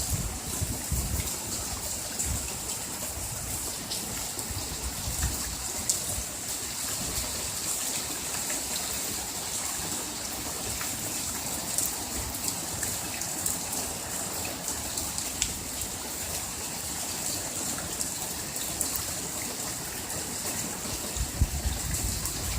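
Heavy rain falling steadily: an even hiss dotted with sharp ticks of drops striking nearby surfaces. Low gusts of wind buffet the microphone in the first second or so.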